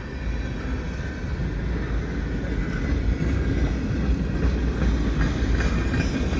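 Freight cars of a CN manifest train rolling past, with the steady low rumble of steel wheels on the rails.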